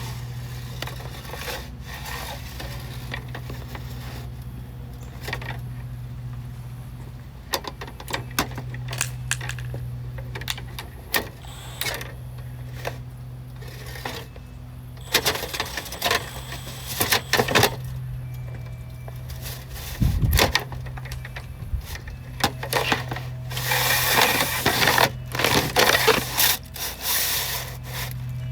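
Metal dryer vent ducting and a cleaning rod being worked and handled: scattered clicks and knocks, with stretches of scraping and crinkling about halfway through and again near the end, over a steady low hum.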